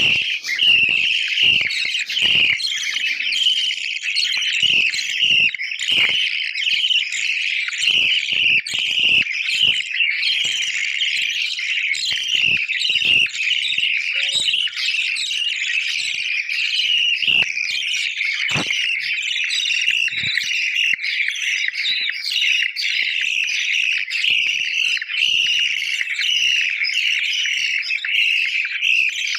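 Budgerigars chirping and chattering continuously in a dense, overlapping stream, with scattered sharp clicks mixed in through the first two-thirds.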